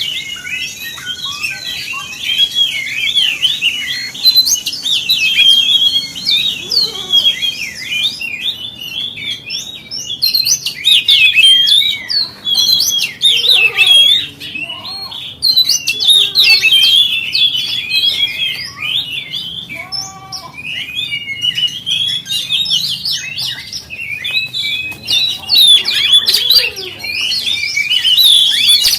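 Oriental magpie-robin (kacer) singing a long, fast, varied song of whistles and chattering notes, with hardly a pause.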